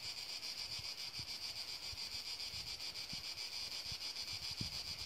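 A steady, high-pitched insect chorus buzzes throughout, with uneven low rumbles of wind buffeting the microphone.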